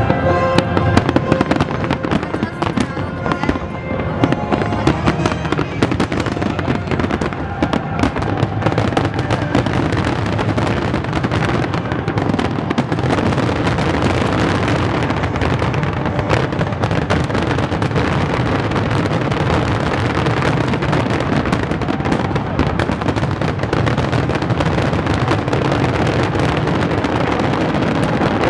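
Fireworks finale barrage: a dense, unbroken run of shell bursts and crackling, one bang right on top of the next.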